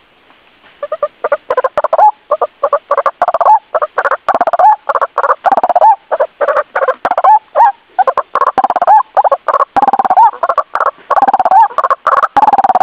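White-breasted waterhen (ruak-ruak) calling: after about a second of quiet, a rapid run of short repeated notes, about three or four a second.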